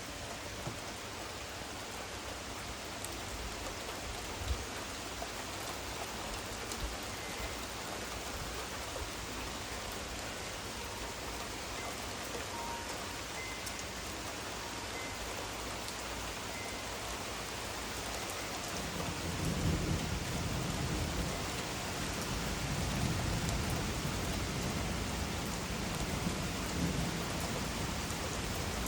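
Steady rain from a thunderstorm, with a long low rumble of thunder rolling in about two-thirds of the way through and carrying on to the end.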